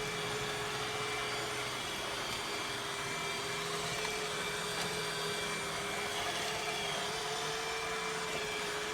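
A motor running steadily: an even whirring noise with a constant humming tone, unchanging throughout.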